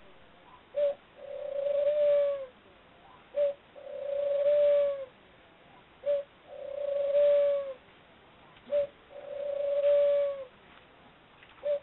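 Pet lovebird cooing in a regular series: a short note followed by a longer, even coo, repeated roughly every three seconds, four times over, with a fifth short note near the end.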